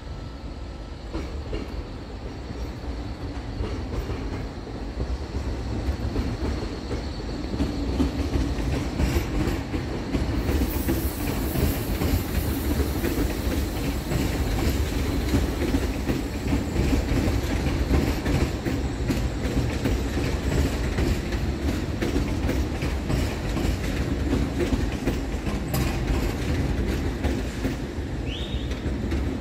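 Alstom Régiolis regional multiple unit passing, a steady low rumble with many quick clicks of wheels over rail joints and points, building over the first several seconds and easing off toward the end. A short high squeal comes near the end.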